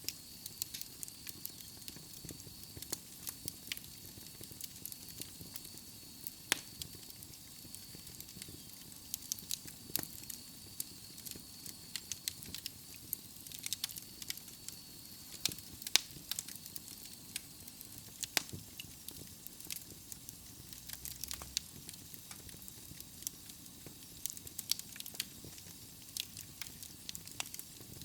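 Logs burning in a wood fireplace: irregular sharp crackles and pops over a soft steady hiss, with a faint high whistle in the first half.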